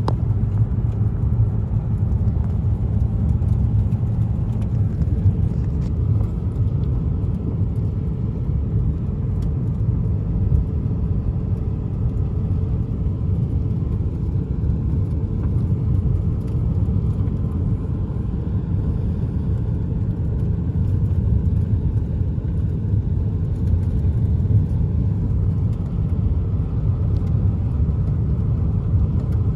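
A steady low rumble with faint, scattered ticks above it.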